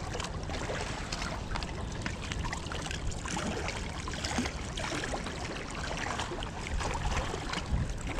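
Lake water lapping and splashing, with many small irregular splashes over a steady low rumble.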